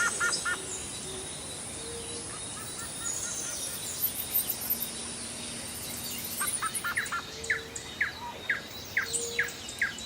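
Birds calling over a steady outdoor hiss: scattered chirps, then from about six seconds in a run of short, sharp chirps, about two a second.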